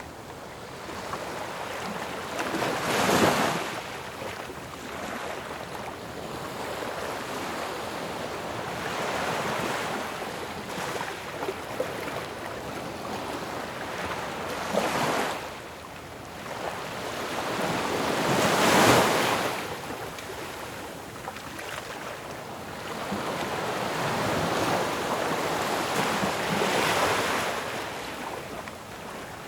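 Ocean waves breaking on the shore, a steady wash of surf with separate waves crashing about 3, 15 and 19 seconds in and a longer swell near the end, the one at 19 seconds the loudest.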